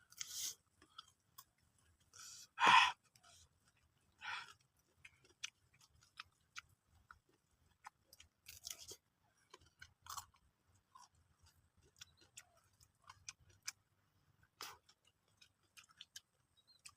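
A person chewing raw papaya rujak: irregular crunches and small wet clicks of the firm, unripe fruit between the teeth, the loudest crunch a little under three seconds in.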